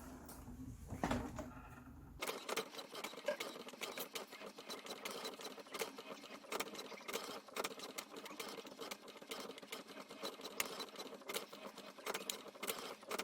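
HP 8100 inkjet printer running its head alignment routine, the paper feed and print carriage going with a dense run of rapid mechanical clicks that sets in about two seconds in.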